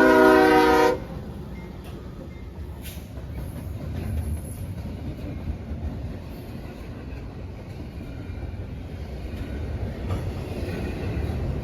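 Locomotive air horn sounding a chord that cuts off about a second in, followed by the steady low rumble and wheel noise of a train rolling past.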